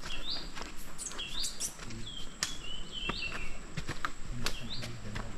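A bird calling in short rising whistled phrases, about five of them, with scattered sharp clicks.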